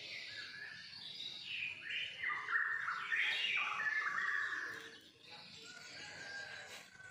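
Birds chirping and calling in quick whistled notes, loudest in the middle and fading about five seconds in.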